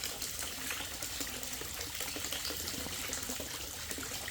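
Steady splashing and trickling of running water at a koi pond.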